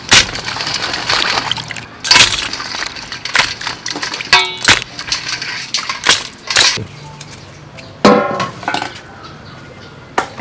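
Kitchen clatter: irregular sharp knocks and clinks of hard objects, about nine in all, with a couple of short squeaky sounds in the middle and near the end.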